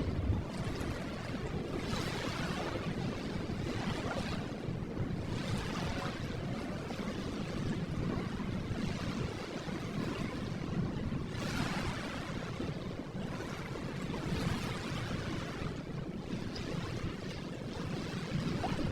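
Ocean waves washing ashore as a steady surf hiss, with a fresh wave swelling and breaking every few seconds.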